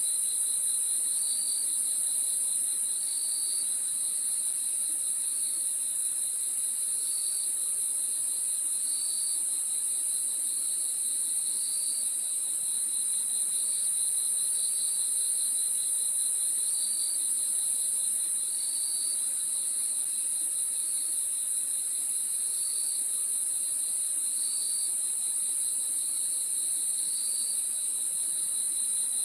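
Crickets chirping at night: a steady, continuous high trill, with another cricket's pulsing chirp repeating roughly every second and a half under it.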